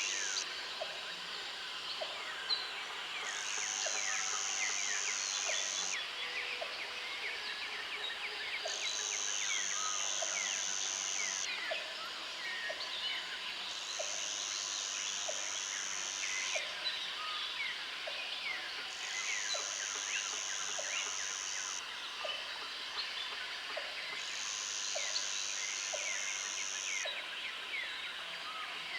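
Rural outdoor soundscape: a high insect buzz that switches on and off in spells of about three seconds, over many small bird chirps and a faint regular tick about once a second.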